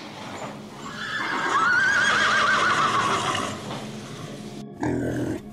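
Horse whinnying: one long, quavering neigh that swells about a second in and fades out, followed near the end by a brief low sound.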